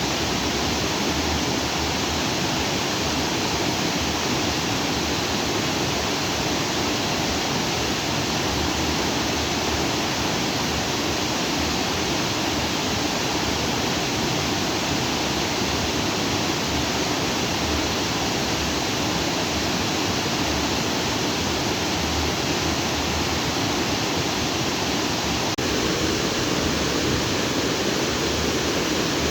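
A lake's outflow stream rushing and splashing over rocks in a steady, unbroken flow.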